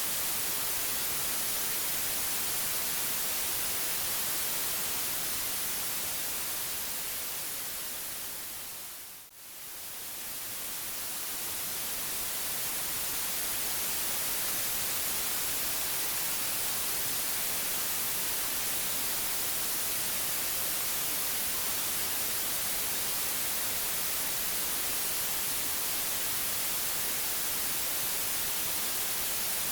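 Steady white noise, an even hiss strongest in the high end. About nine seconds in it fades down briefly and swells back up to full level.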